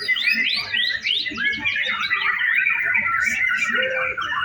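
Several white-rumped shamas (murai batu) singing at once: a dense, unbroken mix of rapid chirps, trills and quick rising whistles.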